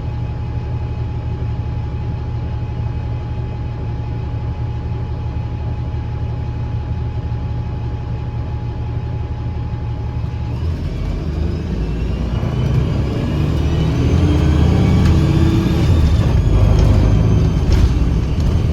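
Interior sound of a 2009 Gillig BRT 40' transit bus with a Voith automatic transmission: a steady low engine rumble, then about ten seconds in the bus pulls away and grows louder. As it accelerates, a sharp whistling whine rises in pitch over the engine.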